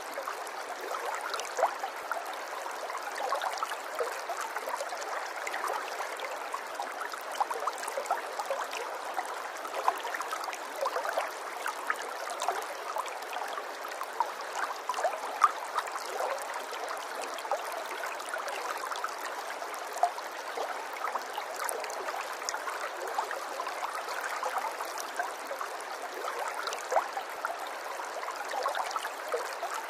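Water running over stones in a small stream: a steady babble dotted with many small splashes and gurgles, with no deep rumble.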